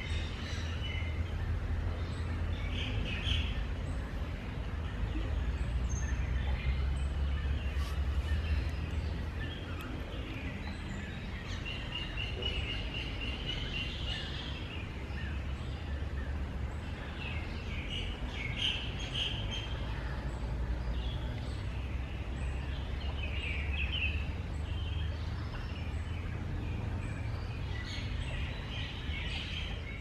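Several birds chirping and calling on and off, with a longer trill about halfway through, over a steady low rumble.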